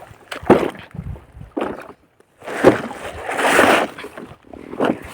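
Water splashing and sloshing in irregular bursts, with a longer splash in the middle.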